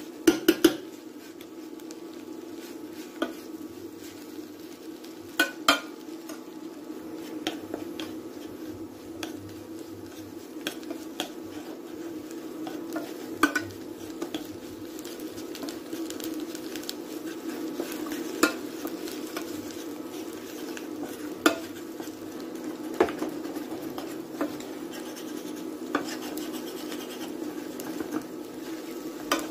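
A utensil stirring food in a pan, with sharp clinks and knocks against the pan every few seconds (a quick cluster right at the start) over a light sizzle.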